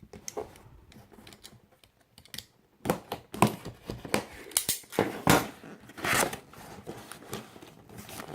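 A cardboard Lego set box being opened and handled: a run of sharp clicks and short tearing, scraping and rustling noises, busiest in the second half.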